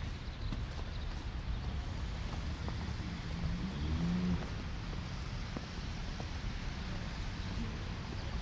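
City street ambience in a snowstorm: a steady low rumble of traffic and wind, with footsteps in snow, and a short pitched sound about four seconds in.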